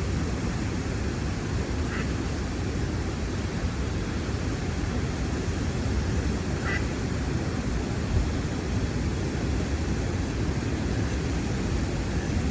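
Steady rushing of flowing river water, with two faint short sounds about two seconds and about seven seconds in.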